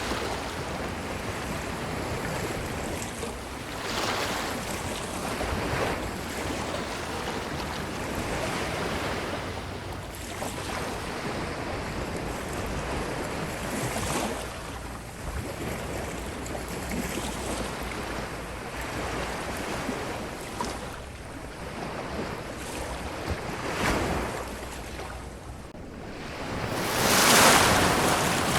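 Ocean surf washing onto a beach: a continuous wash of water with several waves swelling and falling, the biggest one breaking and rushing in near the end.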